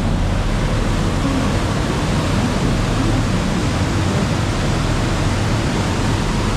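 Steady rushing noise with a low engine drone underneath, from a large tour boat under way.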